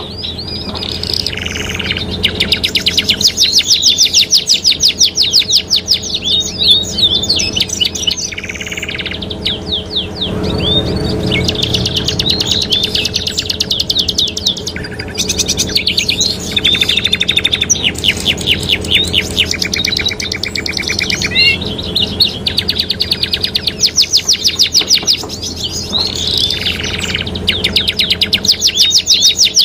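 Domestic canaries singing long, fast trills and rolls, with short pauses and a few quick rising and falling notes between phrases.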